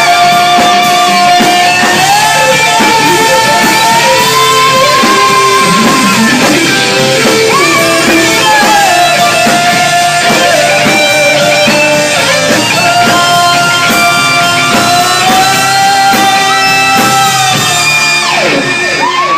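Rock band playing an instrumental passage: a lead electric guitar holds long notes, bending and sliding between them, over rhythm guitar and drums.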